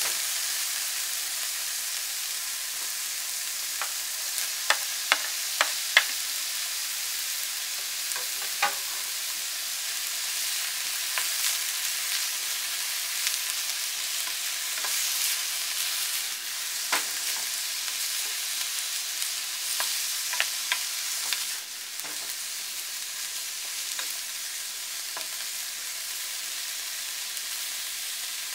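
Sliced pork and onion sizzling in sesame oil in a nonstick frying pan, stirred with a wooden spatula that scrapes and taps against the pan. There is a quick run of sharp taps about five to six seconds in, and the sizzle drops a little about three-quarters of the way through.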